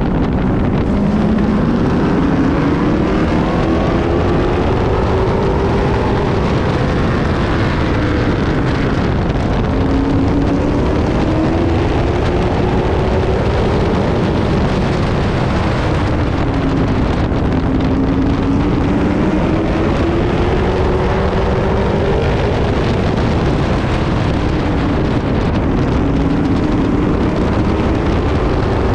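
Pro Truck race truck's engine heard from inside the cab, its pitch climbing slowly on the throttle and dropping back again about every seven to eight seconds as it laps the track, with rushing wind noise underneath.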